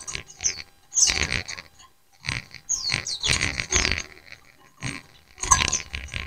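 A flock of white-eyes (pleci) chirping and chattering back and forth in short bursts of high, quickly sweeping notes, one burst after another about every second.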